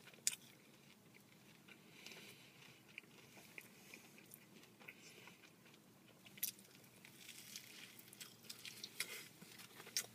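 Faint chewing of a mouthful of fried green tomato BLT on grilled sourdough bread: soft crunching and mouth sounds with a few sharper clicks scattered through.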